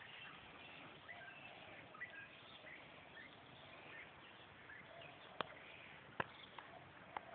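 Faint outdoor quiet with scattered bird chirps, and three sharp clicks in the second half.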